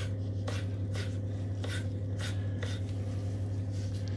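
Kitchen knife cutting pickled jalapeños on a board: short, soft strokes about twice a second over a steady low hum.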